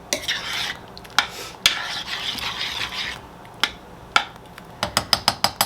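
A spoon stirring chili in a cast iron pot, scraping in two longer strokes with a few single knocks against the pot. Near the end comes a quick run of about seven sharp taps.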